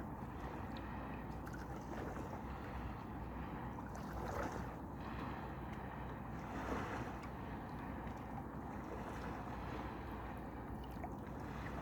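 Wind buffeting the microphone over the wash of gentle sea waves at the shore, with two soft swells of water sound, about four and a half and seven seconds in.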